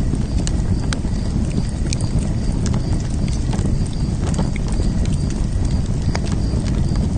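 Wood fire in a fire pit burning with a steady low rumble of flames and scattered sharp crackles and pops. A faint high-pitched chirp repeats evenly about three times a second throughout.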